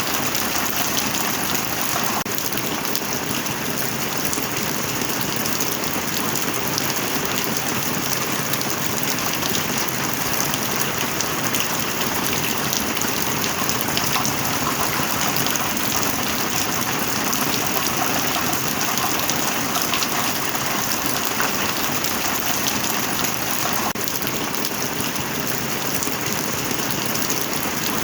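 Steady heavy rain falling, an even, unbroken hiss of dense drops.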